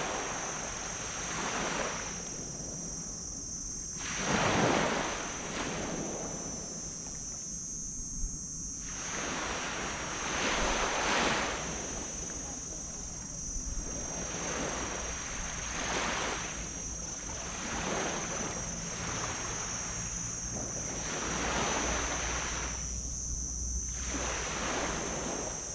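Small waves breaking and washing up on a beach, a surge every few seconds, over a steady high-pitched hiss.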